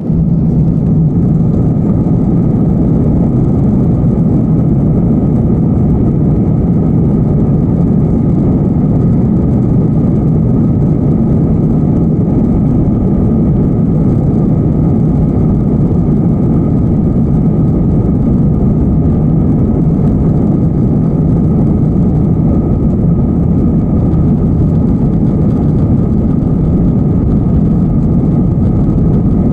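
Airbus A321 jet engines running at a steady, unchanging level during takeoff, a loud low-pitched drone with a faint steady tone above it.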